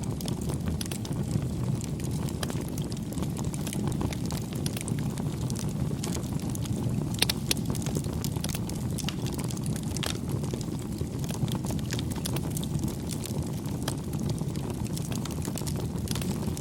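Wood campfire burning: a steady low rush of flame with frequent small crackles and pops, and a few sharper pops about seven and ten seconds in.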